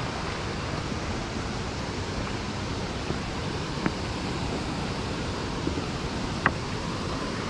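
Steady rush of water at a lake spillway mixed with rain, with two faint ticks, one about four seconds in and one near the end.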